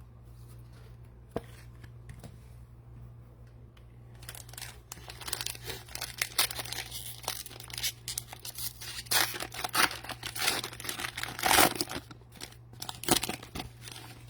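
Cellophane wrapper of a trading-card cello pack being torn open and crinkled, in irregular crackling bursts that start about four seconds in.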